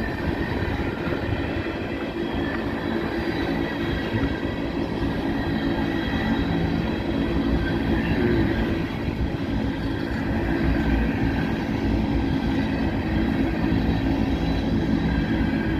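Empty coal train of rotary-dump hopper cars rolling slowly past: a steady rumble of steel wheels on the rails, with faint wheel squeal.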